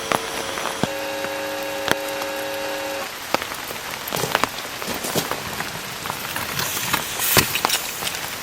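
Rain falling steadily, with single drops landing close by as many short, sharp taps. For about two seconds near the start a steady held tone sounds over the rain.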